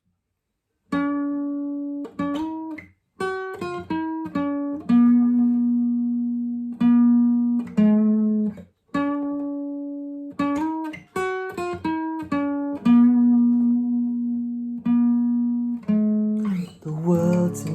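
Acoustic guitar picking a slow single-note melody, some notes left ringing for a couple of seconds. Near the end, fuller chords and a low bass come in.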